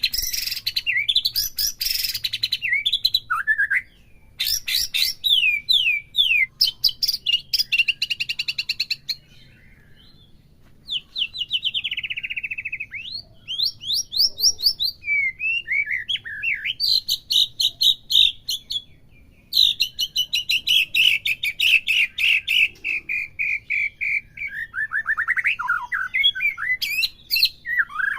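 White-rumped shama (murai batu) singing a long, varied song of fast trills, rapid repeated chirps and whistled phrases, broken by short pauses.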